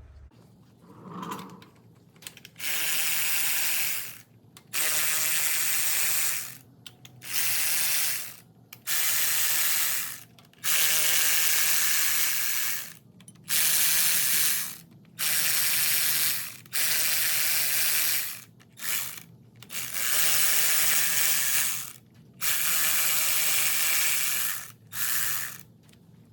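Ratchet wrench working in about a dozen runs of one to two seconds each, with short pauses between, backing out the cast-iron intake manifold bolts on a Ford 289 V8.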